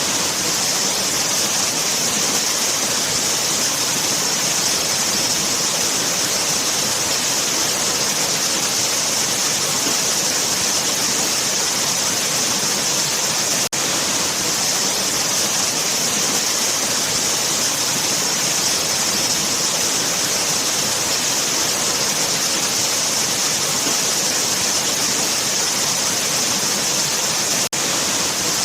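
Waterfall, water pouring and splashing in a steady, unbroken rush, brightest in its hiss, with a momentary break about halfway through and again near the end.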